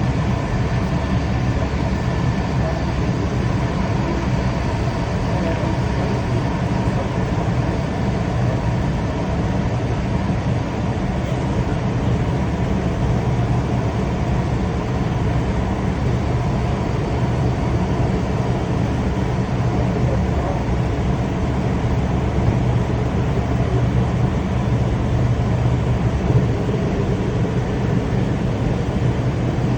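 Passenger train running along the track: a steady, even rumble.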